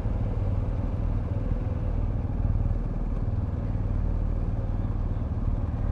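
Motorcycle engine running at a steady idle, a low even rumble with no change in revs.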